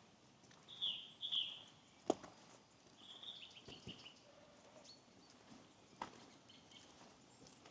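Small birds giving short calls in two quick clusters in the first half, over a faint steady hiss. A few sharp clicks cut in, the loudest about two seconds in and another near the end.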